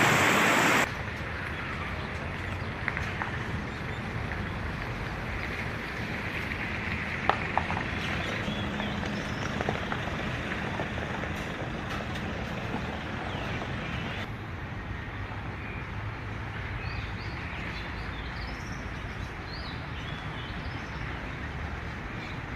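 A loud rushing noise stops abruptly about a second in, leaving steady outdoor background noise. Faint birds chirp through the second half.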